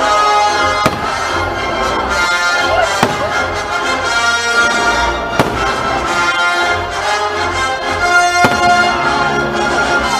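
Orchestral show music with brass playing loudly while fireworks go off, about four sharp bangs spaced two to three seconds apart over the music.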